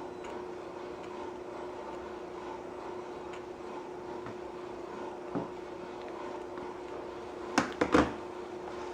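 Steady low hiss with a faint hum from a soda-can alcohol stove burning under a small cup of water that is starting to bubble toward the boil. Three or four sharp knocks come close together near the end.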